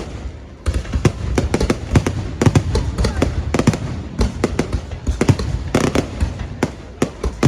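Fireworks display: many fireworks bursting in quick, irregular succession, dense bangs and crackles with a short lull just after the start.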